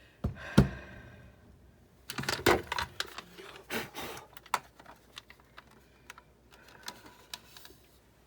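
Parts of a partly disassembled Big Shot die-cutting machine being handled and set down. A sharp knock comes about half a second in, a burst of knocks and rattles around two to three seconds, then scattered light clicks.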